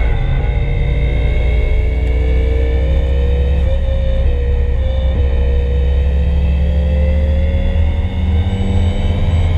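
Turbocharged SR20DET four-cylinder engine of a Nissan 240SX pulling under load on track, heard from inside the cabin. Its pitch climbs slowly, with a couple of brief dips about four and five seconds in.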